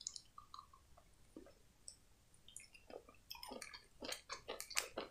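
Close-miked chewing of a chocolate candy: soft, wet mouth clicks and smacks, faint and sparse at first, then coming quickly in the last two seconds.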